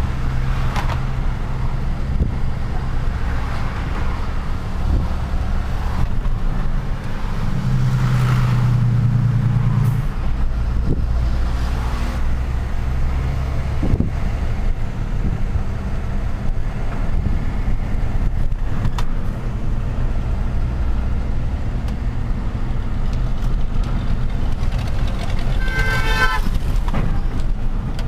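A truck's engine running steadily in city traffic, its note swelling for a couple of seconds about a third of the way in. Near the end a horn sounds once, for about a second.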